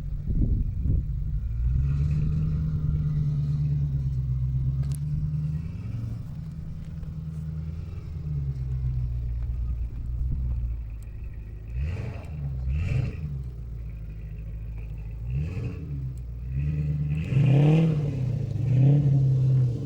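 Land Rover Discovery 2 engine running at low, steady revs, then revved briefly several times in the second half, each rev rising and falling quickly, as it works over a rough off-road trail.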